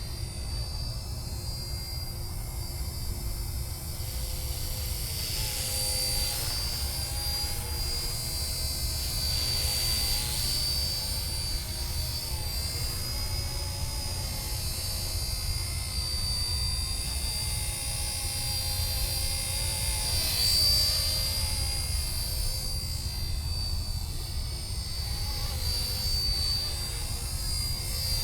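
RC ERA UH-1 Huey model helicopter in flight: a steady high electric-motor whine with rotor noise that swells and fades several times, over a low rumble.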